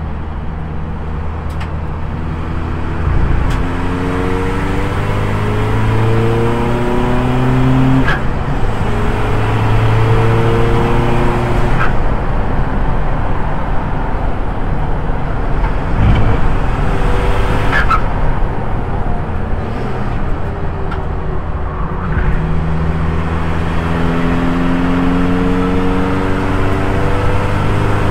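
Audi TT Cup race car's CUAA 2.0 TDI diesel engine accelerating hard, heard from inside the cabin. Its note rises through each gear and drops back at each upshift, several times over.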